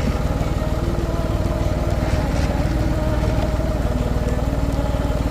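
An engine running steadily at an even idle, with a fast, regular firing pulse and no change in speed.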